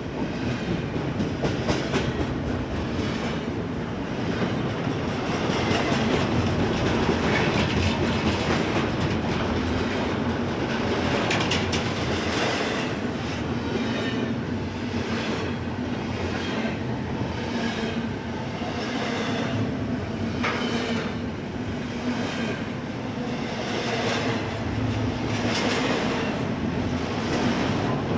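Freight cars of a passing train rolling by, their wheels clicking over the rail joints over a steady rumble, with a brief wheel squeal about twenty seconds in.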